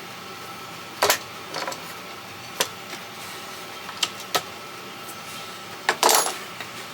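A handful of sharp knocks and clicks at irregular intervals, from wood and tools being handled on a workbench, over a steady background hum.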